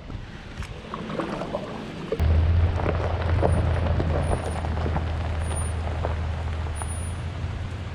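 A small boat motor starts about two seconds in and runs with a steady low hum. Gusting wind and choppy water hiss and patter around it.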